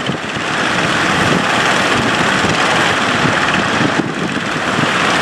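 A boat's engine running steadily under a loud, even rushing noise, which drops a little about four seconds in.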